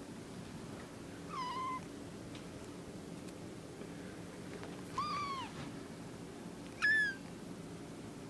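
Five-week-old kittens meowing: three short, high-pitched mews a few seconds apart, the last one highest in pitch.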